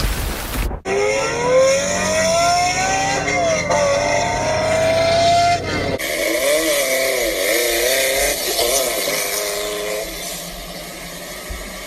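High-revving sports car engine accelerating hard, its pitch climbing, dropping at a gear change and climbing again. After a cut about six seconds in, an engine is revved up and down in quick blips, quieter near the end.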